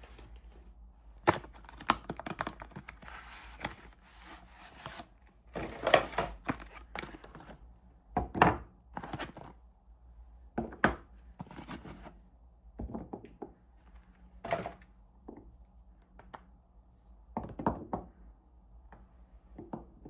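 Soap packaging being opened by hand: wrappers tearing and crinkling in short bursts, with a dozen or so sharp knocks and taps.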